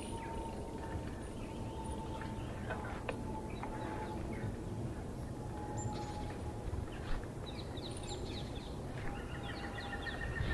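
Steady low rumble of a bicycle riding along a woodland path, with birds chirping; a quick run of repeated bird notes near the end.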